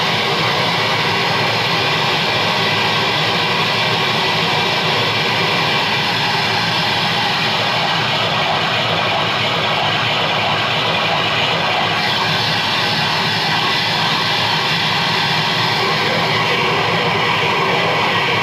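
Keyboard played through a guitar amp as a dense, steady noise drone: a thick unbroken wall of sound with faint held tones in it and no beat.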